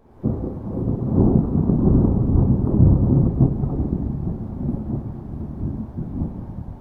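Low rolling thunder rumble. It starts suddenly just after the beginning, is loudest over the first few seconds, then slowly eases into a lower, continuing rumble.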